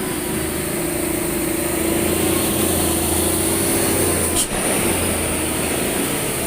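Hino truck's diesel engine running steadily under load, with a brief sharp knock about four and a half seconds in.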